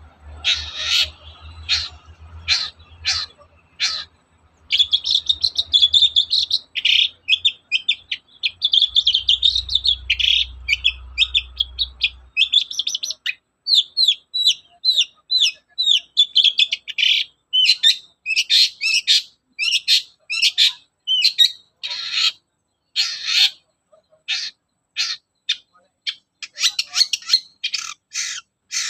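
Long-tailed shrike (cendet) singing loudly. Separate sharp notes give way to a fast, unbroken run of chattering notes, then to quick strings of short notes. A low hum sits underneath for the first dozen seconds.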